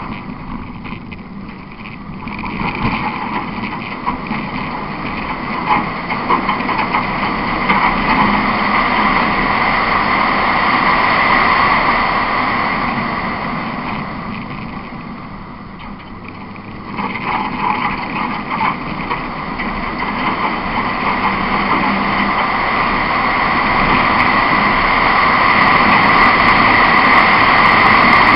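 Rally car engine driven hard, heard from inside the car over steady gravel road noise. It eases off near the start and again about halfway, then builds steadily louder as the car accelerates.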